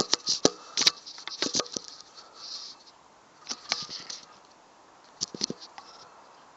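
Irregular clicks, taps and rustles of a phone being handled and set in place, in short clusters.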